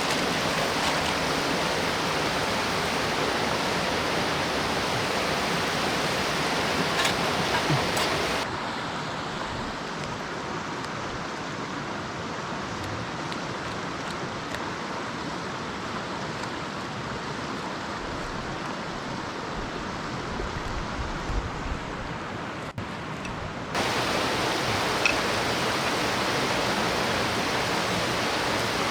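Mountain stream rushing steadily. About 8 seconds in the rush becomes quieter and duller, and it comes back to full strength about 24 seconds in.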